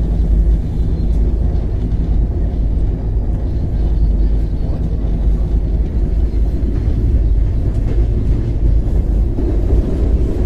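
Steady low rumble of an Indian Railways passenger train, even throughout.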